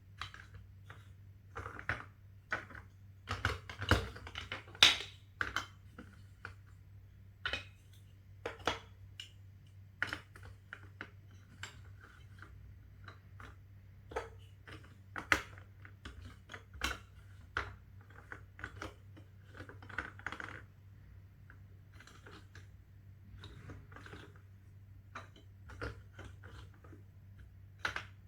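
Plastic Duplo bricks clicking and clattering as they are handled and pressed together, in irregular sharp clicks, some in quick runs, over a faint steady hum.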